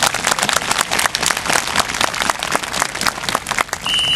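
Crowd applauding with dense, irregular clapping. Near the end a high, steady tone starts and runs on.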